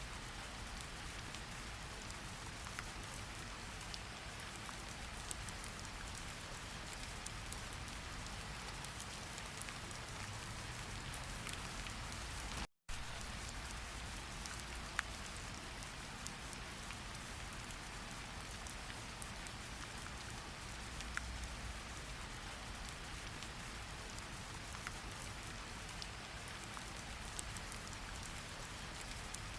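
Steady rain falling, an even hiss with scattered individual drops ticking on a surface. The sound cuts out for an instant about 13 seconds in, then carries on unchanged.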